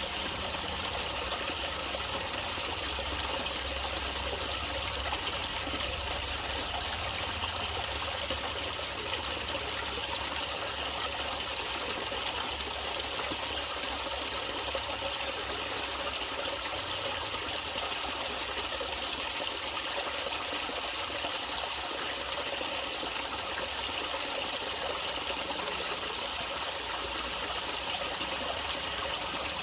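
Natural running water trickling and splashing steadily, like a small stream.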